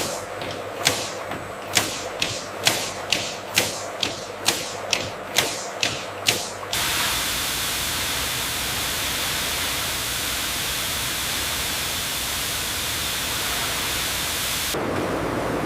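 Processing-line machinery clicking evenly, about twice a second, for roughly six seconds. It then cuts abruptly to a steady spray-like hiss, which shifts to a duller rushing sound near the end.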